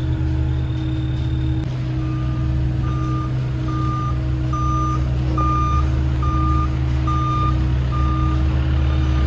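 A vehicle's backup alarm beeping steadily, about ten beeps at roughly one every two-thirds of a second, starting about two seconds in, over the steady low drone of an idling truck engine.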